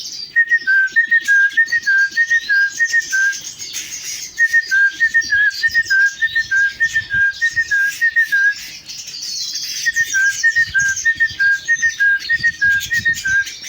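A man whistling a quick two-note call, a higher note dropping to a slightly lower one, repeated over and over in three runs, to call his canaries and finches to his hand. Canaries and other finches twitter and chirp throughout.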